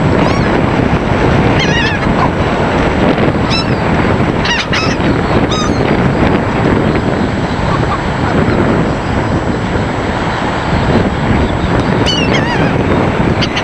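Gulls calling in short, scattered bursts of falling cries, several times, with a cluster near the end, over a steady noise of wind on the microphone.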